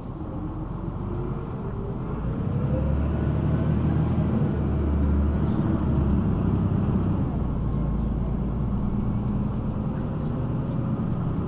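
City bus engine and drivetrain running as the bus gets under way. The rumble grows louder over the first few seconds, then holds steady.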